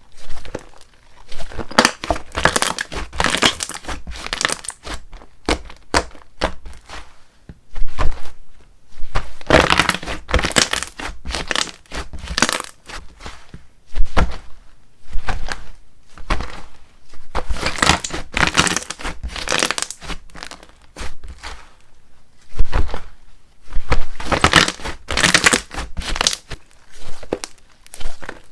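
Borax-free slime being squished, stretched and folded by hand, giving bursts of wet crackling, popping and squelching that come in irregular clusters every second or two.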